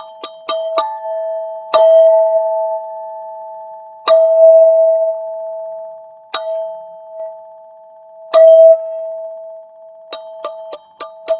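Golden Zentube, a metal chime, struck in a quick roll of about four to five strokes a second, then four single strikes about two seconds apart, each ringing out on the same steady pitch. Another quick roll starts near the end.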